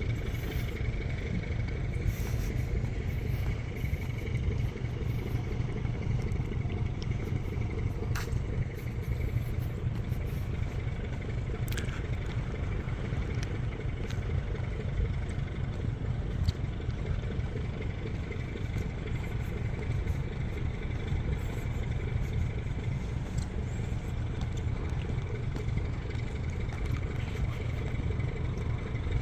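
Steady low rumble of distant engines, with a faint steady high hum and a few light clicks.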